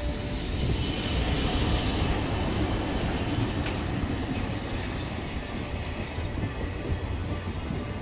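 EF65 electric locomotive and its train of flat wagons passing at close range: a steady rumble of steel wheels on the rails, with a faint high wheel squeal during the first few seconds and a single sharp clack a little after three seconds in.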